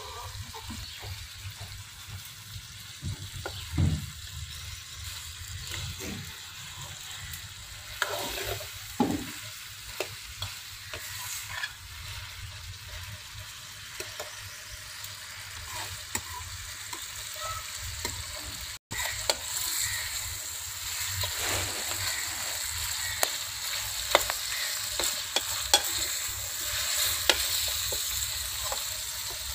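Chicken and potatoes frying in oil in a metal pot over a wood fire, browned before water goes in: a steady sizzle with the scrape and clink of a metal ladle stirring. The sizzle grows louder about two-thirds of the way in.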